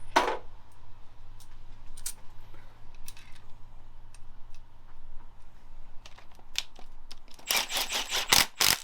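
Metal hand tools and fixings clicking and clinking while a turbocharger is bolted onto an engine: scattered single clicks, then a quick run of about ten louder metallic clicks near the end.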